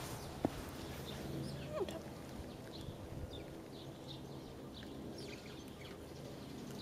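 Small birds chirping in short scattered calls over a faint steady low hum, with one sharp click about half a second in.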